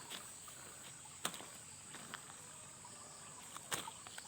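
Steady high-pitched drone of night insects, with a few faint clicks about a second in and near the end.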